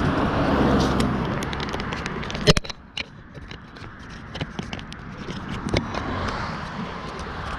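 A bicycle being parked and handled: rolling and rustling noise, a sharp click about two and a half seconds in, then quieter scattered clicks and scrapes.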